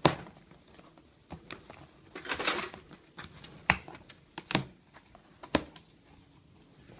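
Cardboard box being opened by hand and its packing paper handled: several sharp taps and knocks, with a longer rustle about two and a half seconds in.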